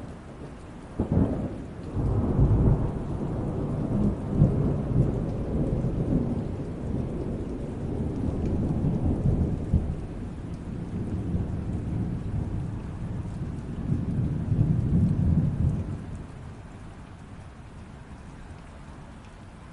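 Thunder over steady light rain: a sharp crack about a second in, then a long low rumble that rolls on and fades out near the end, leaving the hiss of the rain.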